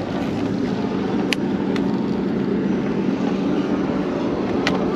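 Steady traffic noise with a low engine drone, broken by two short sharp clicks, one about a second in and one near the end.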